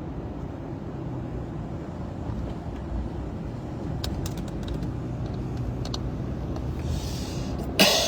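Car on the move, with steady low road and engine noise and a short loud burst near the end.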